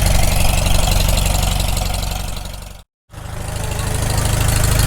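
Freshly rebuilt Farmall Super M four-cylinder engine running steadily on its first run after the rebuild, being warmed up. The sound fades out to silence just under three seconds in and fades back in.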